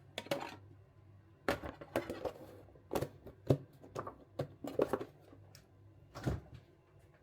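Kitchen clatter: a container and utensils knocked and handled on a countertop, with irregular sharp knocks and taps, about a dozen over several seconds.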